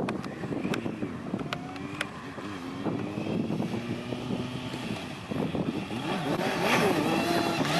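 Kawasaki Z750 inline-four motorcycle engine being revved while warming up, its pitch rising and falling again and again. A few sharp clicks come in the first couple of seconds, and the engine grows louder and higher near the end.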